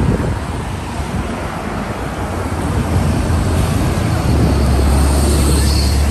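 Steady low outdoor rumble, heavier from about four seconds in, with a hiss of noise above it.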